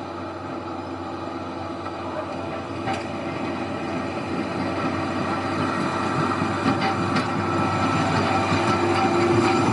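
Train running on the heritage line's track, growing steadily louder, with a few sharp clicks along the way.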